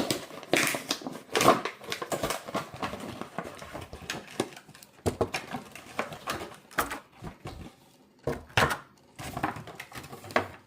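Cardboard-and-plastic toy packaging being pulled and torn open by hand: irregular crackles, clicks and tearing, coming in clusters with short pauses.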